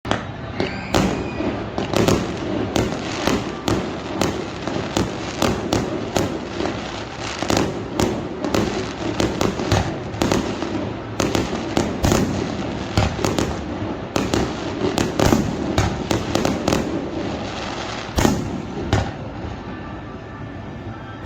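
Aerial fireworks display: a rapid, continuous barrage of bangs and crackling bursts, many shells going off in quick succession, easing off near the end.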